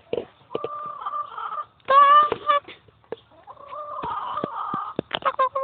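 A chicken calling: two bouts of drawn-out, squawking clucks, the first about two seconds in and a longer one near the middle, with a few sharp clicks between.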